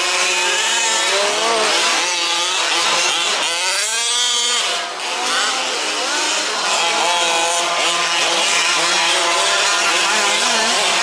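Several 1/5-scale petrol two-stroke RC off-road trucks racing, their small engines revving up and down over one another in a buzzing whine; one revs up sharply about four seconds in.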